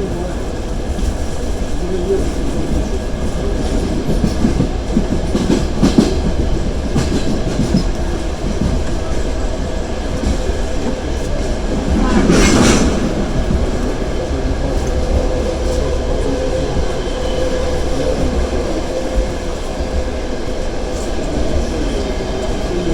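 Passenger train running, heard from aboard: a steady rumble of wheels on rail with scattered clicks as the wheels pass over rail joints, and a brief louder rush about halfway through.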